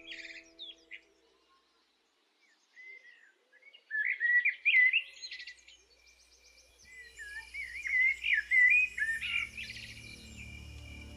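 Songbirds chirping and warbling in three quick, wavering phrases, with gaps of near quiet between them. A faint steady high tone sits underneath from about seven seconds in.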